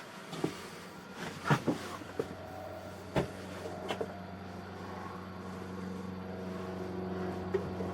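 A motor's steady low hum, slowly growing louder, with several sharp knocks in the first half.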